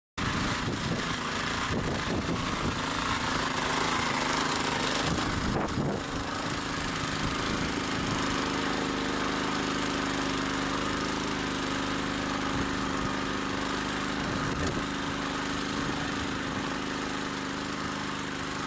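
Petrol walk-behind tractor (motoblock) engine running under load as it works the soil. Its note turns steady and even about six seconds in.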